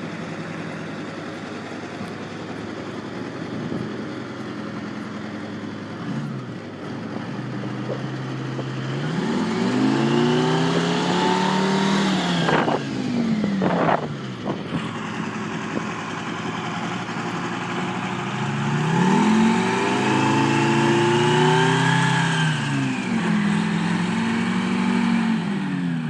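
Trackmobile railcar mover's engine running steadily, then revved up and let back down twice, each rise and fall lasting about five seconds, with a couple of sharp clicks between the two revs.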